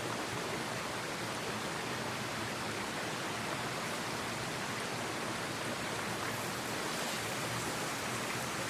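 Steady rushing of a mountain headwater stream, an even hiss of flowing water that does not change.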